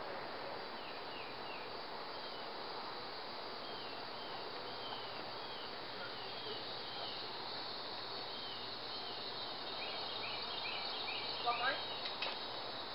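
A bird calling in short, repeated arched chirps over a steady high hum of insects. About eleven and a half seconds in, two brief louder sounds stand out.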